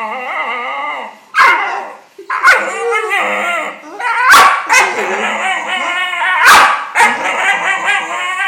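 Staffordshire bull terrier making drawn-out, wavering vocal noises, a string of about four long moaning calls broken by short yips, each starting abruptly.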